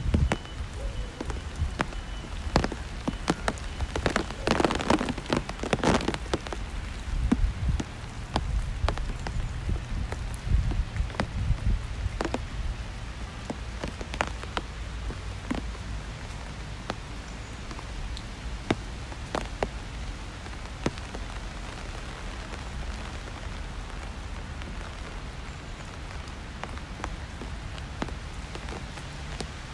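Rain falling on a wet city street: a steady hiss with many sharp, close drop impacts and a low rumble underneath. A louder rush of noise comes about four to six seconds in.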